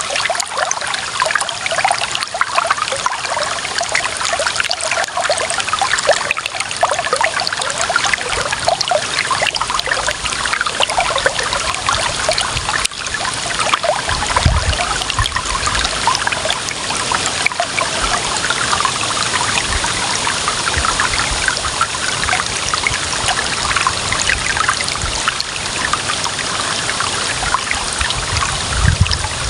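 Clear running water trickling steadily in a small stream, with brief low rumbles about halfway through and near the end.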